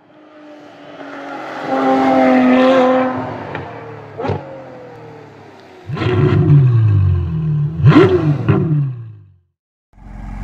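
Logo-intro sound effect: a car engine revving up and falling back, with two sharp rising sweeps, the second loudest, before it cuts off shortly before the end. In the last half-second a car engine starts running steadily at idle.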